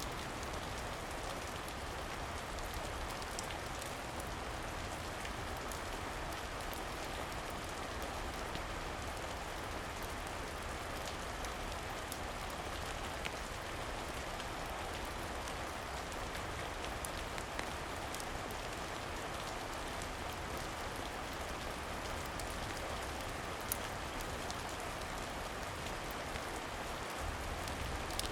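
Steady rain falling, with a few faint sharp clicks scattered through it.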